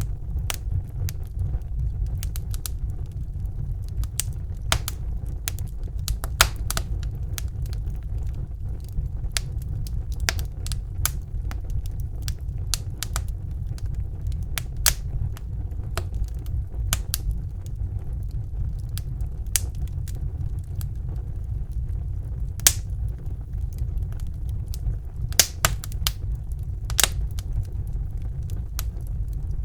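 Wood fire burning in a fireplace: a steady low rumble of the flames with irregular sharp crackles and pops of burning logs, a few louder snaps scattered through.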